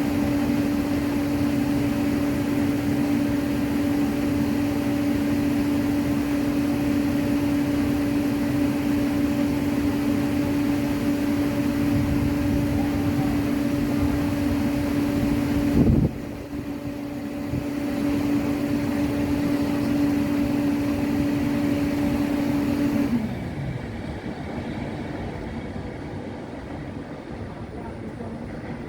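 Electric train standing at the platform, its equipment giving a steady electric hum with one strong low tone. A sharp click comes about halfway, and near the end the hum falls in pitch and winds down.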